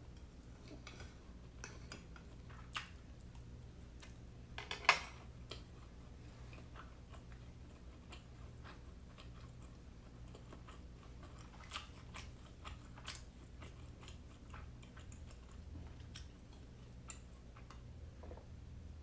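Close-up eating sounds of a person chewing steamed siomai dumplings: soft mouth clicks and bites scattered throughout, with one louder click about five seconds in.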